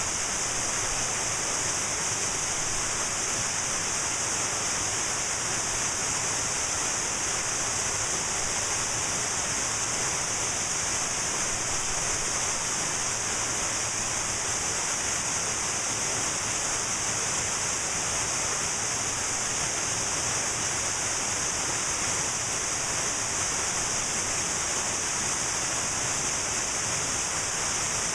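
Cascading waterfall rushing: a steady, unbroken wash of water noise, more hiss than rumble.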